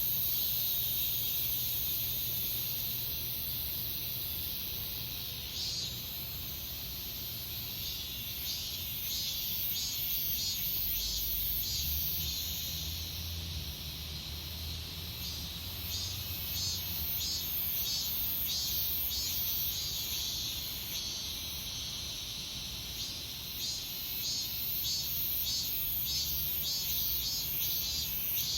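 Cicadas singing: a steady high-pitched drone, joined after several seconds by a second call that pulses at about two beats a second.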